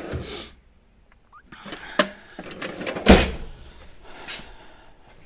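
Tool-handling noises while working on the vehicle: a brief rustle, a couple of sharp clicks about two seconds in, then a loud knock about three seconds in.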